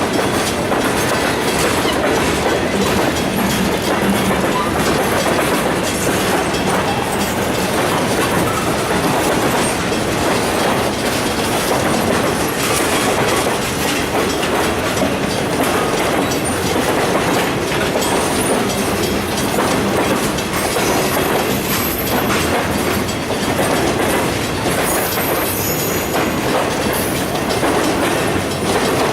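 Freight cars rolling past, a steady rumble with the wheels clicking over rail joints, and a faint high wheel squeal near the end.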